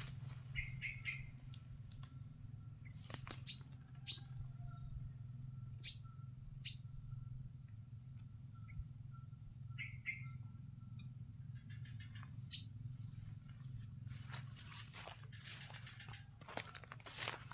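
A steady, high-pitched drone of insects, with about a dozen short, sharp downward-swept chirps from small birds scattered through it and two brief trills, one about a second in and one about ten seconds in.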